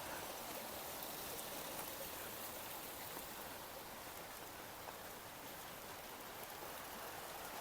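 Light rain falling, a steady soft patter of drops on foliage and ground.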